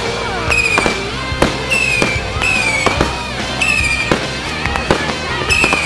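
Fireworks display going off: a rapid run of bangs and crackles, several a second, from aerial shells bursting.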